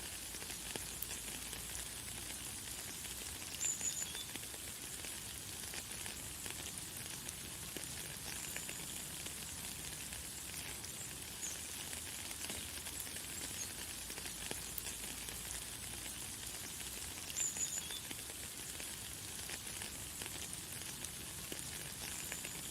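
Light, fine rain pattering steadily as a fine hiss of drops, with a bird giving short high chirps about four seconds in and again past the middle.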